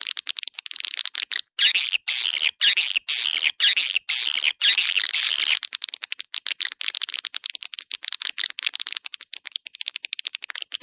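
Swiftlet call recording: dense, rapid chirping and twittering of swiftlets in loud packed bursts, giving way after about six seconds to a fast run of short clicks. It is a lure sound of the kind played to draw swiftlets to a nesting house.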